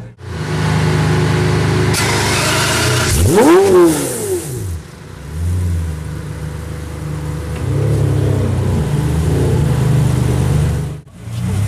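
Pagani Zonda F Roadster's Mercedes-AMG 7.3-litre V12 idling through its titanium exhaust, with one sharp rev about three seconds in that climbs and falls back within a second, then a few smaller blips of the throttle.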